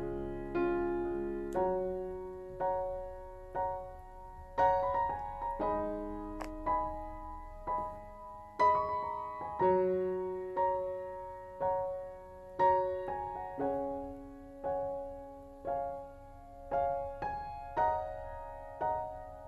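Background piano music: a slow, gentle melody with notes struck about once a second, each fading away before the next.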